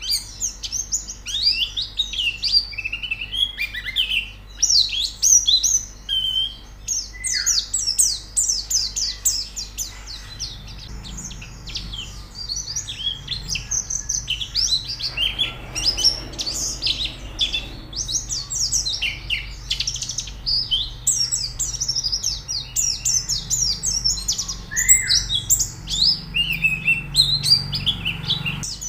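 White-eyes (pleci) singing: a dense, unbroken run of fast, high twittering notes, over a faint steady low hum.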